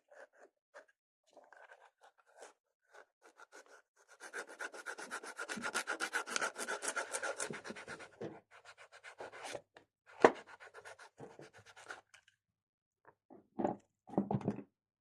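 Rapid hand scraping and rubbing strokes on a workpiece, densest and loudest in the middle, followed by a single sharp click and a couple of short knocks near the end.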